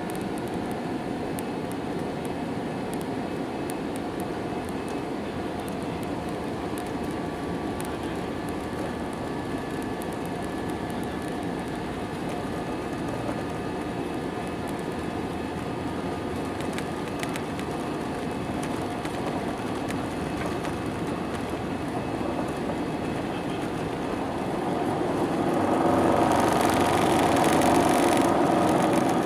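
Airbus A320-214's CFM56 jet engines heard from the cabin, running steadily with a faint whine over a constant rumble as the plane moves on the ground; about 25 seconds in the noise swells markedly louder, then eases slightly near the end.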